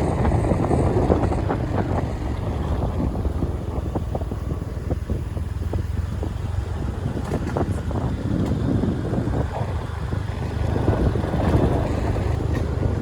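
Ride noise from a moving vehicle: a steady low engine and road rumble, with wind buffeting the microphone and scattered small clicks.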